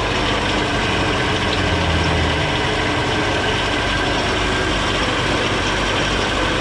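1969 Volvo 142's four-cylinder engine idling steadily, its exhaust patched. Much of the running noise comes from the belt-driven front end, which the owner puts down to the water pump and fan belt.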